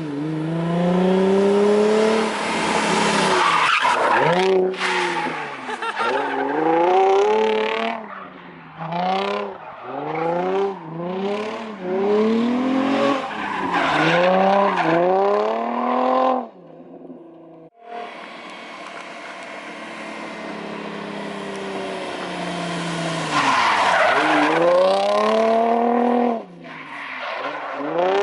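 Drift car's engine revving hard and falling back again and again as it slides through corners, with tyre squeal over it. About two-thirds through, the engine cuts off briefly, then builds slowly and steadily before revving hard again.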